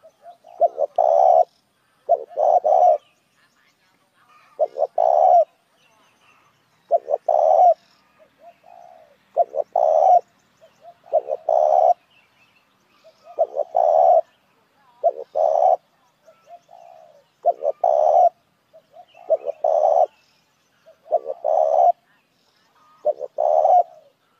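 Spotted dove cooing: short repeated phrases of a few low coos, about one phrase every two seconds, the kind of call played to lure doves.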